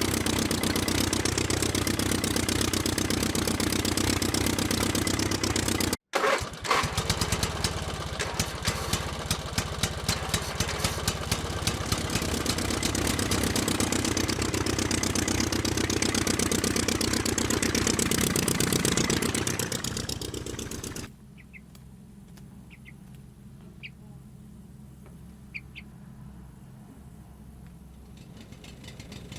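Small motor running steadily, then, after a sudden break, running again with a fast even ticking. Near the end it drops to a much quieter hum with a few faint clicks.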